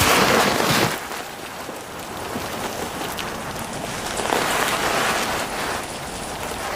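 A great grey owl plunging feet-first into deep snow onto a vole: a sudden rush of noise lasting about a second, then a softer rustling hiss of snow that swells again about four seconds in.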